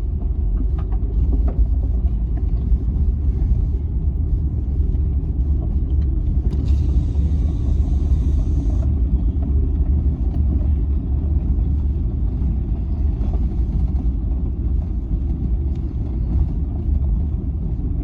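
A car driving at steady speed, a continuous low rumble of engine and tyres. About six and a half seconds in, a higher hiss joins for roughly two seconds.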